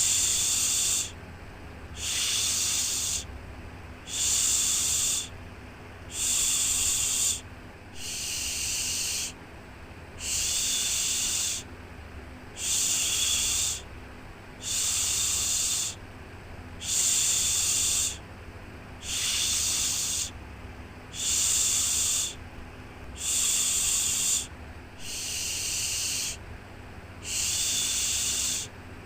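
A rhythmic shushing "shhh" sound for soothing a baby to sleep: a hissy shush about a second long repeated roughly every two seconds, with short quieter gaps between, over a low steady hum.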